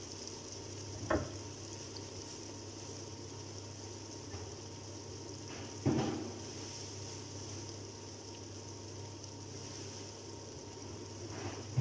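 Eggplant and sardine mixture frying in a nonstick pan, a steady sizzle over a low hum. The spatula knocks sharply about a second in and again about six seconds in, as stirring stops and it is set down.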